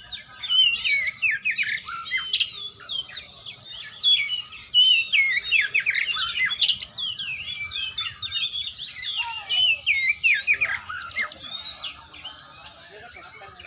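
Oriental magpie-robin (kacer) singing a fast, varied run of whistles, chirps and sweeping notes, easing off about twelve seconds in.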